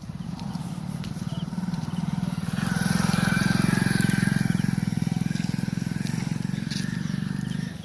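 A motorcycle engine passing, getting louder to a peak about four seconds in and then fading away near the end.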